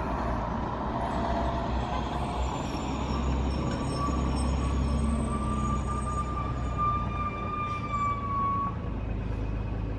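Street traffic: a motor vehicle's low engine rumble, with a long, steady, high-pitched whine that lasts about five seconds and drops slightly in pitch before it stops.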